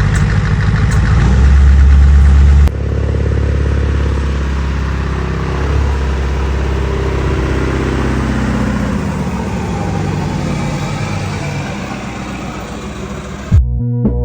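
Loud vehicle engine running; about three seconds in the sound changes abruptly, and the engine's pitch then falls slowly over several seconds as it winds down and fades. Music starts suddenly near the end.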